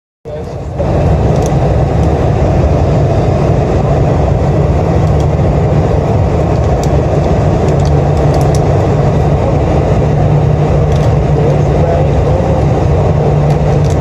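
Steady cabin noise of a Boeing 747-400 in flight: engine and airflow noise heard from inside the cabin, a dense low rumble with a steady low hum that does not change.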